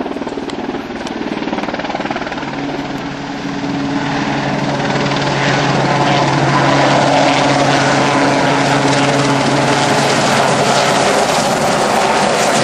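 RAF Westland Sea King helicopter's twin turboshaft engines and rotors running. The sound grows louder over the first several seconds, then holds as a steady loud drone with a low hum.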